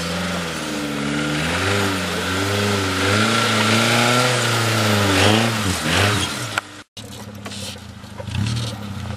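Suzuki SJ-series (Samurai) 4x4's engine revving under load on rough, steep ground, its pitch rising and falling several times. After a brief break about seven seconds in, it runs steadier at lower revs.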